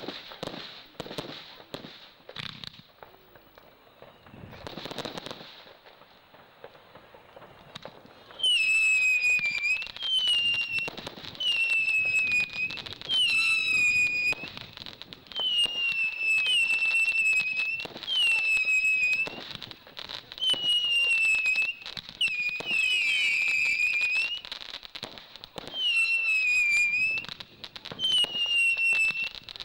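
Fireworks going off: a few seconds of scattered crackling pops, then a long run of loud screeching whistles, about one a second, each dipping slightly in pitch, as a whistling firework fires shot after shot.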